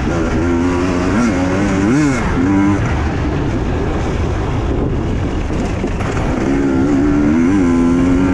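Husqvarna TE 250i's two-stroke single-cylinder engine running under load with quick blips of the throttle, its note rising and falling briefly a few times, over a steady rush of noise from riding off-road.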